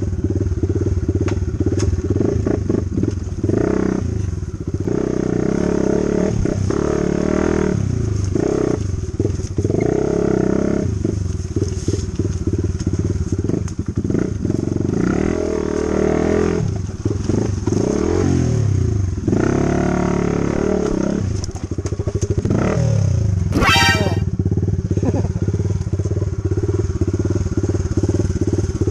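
Dirt bike engine being ridden along a rough trail, its revs rising and falling over and over, with scattered knocks. About two-thirds of the way through comes a brief shrill squeal.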